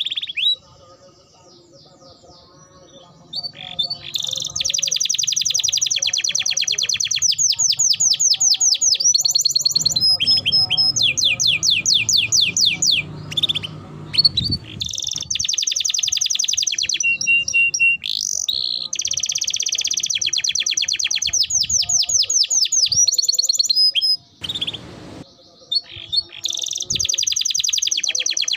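Domestic canary singing a long song made of very fast trills and rapidly repeated high notes. The song breaks off briefly about a second in and again near the end, then carries on.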